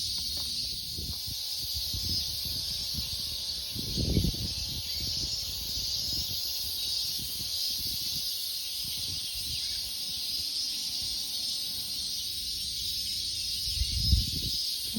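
A chorus of many cicadas buzzing steadily. Two brief low thumps cut in, one about four seconds in and one near the end.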